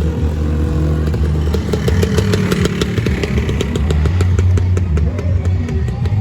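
Two-stroke Lambretta scooter engines running, with a rapid run of sharp ticks through the middle of the sound.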